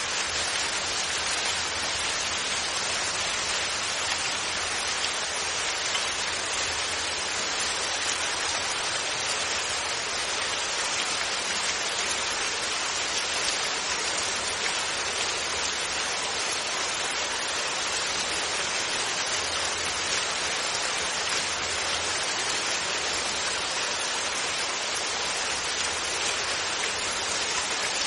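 Steady rainfall without thunder, an even hiss of rain falling on surfaces.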